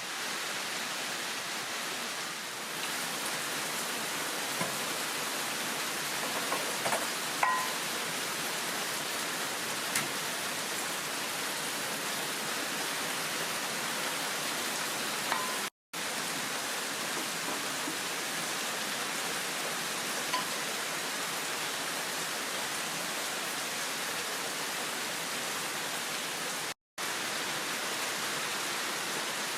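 Heavy rain pouring steadily in a downpour, with a few faint clicks over it. The sound cuts out completely twice for a split second.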